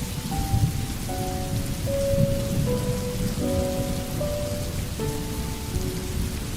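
Steady rain falling, with a low rumble of thunder underneath. A soft, slow melody of held notes, each lasting a half second to a second, plays under the rain.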